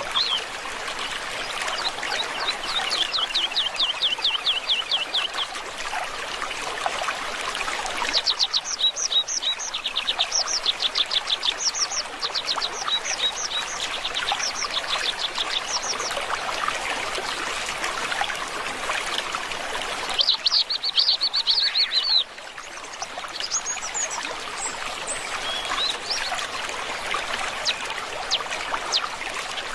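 Small birds singing in runs of rapid, evenly repeated chirps over a steadily trickling stream. The chirp runs come near the start, for several seconds from about a third of the way in, and again briefly about two-thirds through.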